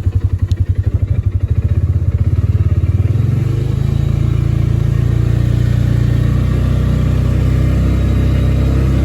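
Small vehicle engine running under way at low speed, its note pulsing evenly at first; about three seconds in the revs pick up and it settles into a steady drone.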